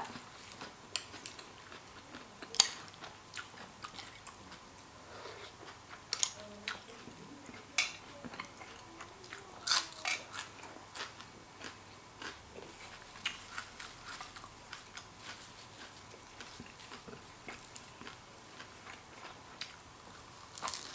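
Close-miked chewing of spicy horseshoe crab egg salad: irregular mouth clicks with a few louder ones scattered through.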